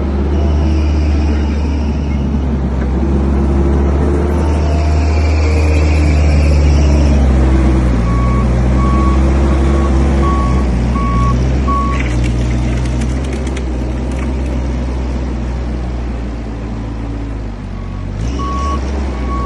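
Heavy trucks' engines running with a steady low drone, and a reversing alarm beeping in a run of short repeated beeps about eight seconds in and again near the end.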